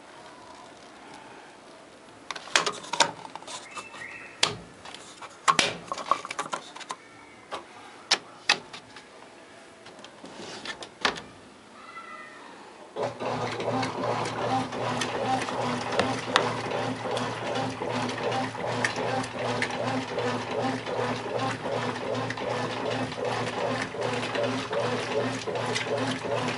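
A few sharp clicks and knocks. About halfway through, a Brastemp top-loading washing machine starts up with a steady low hum and rushing water, running on.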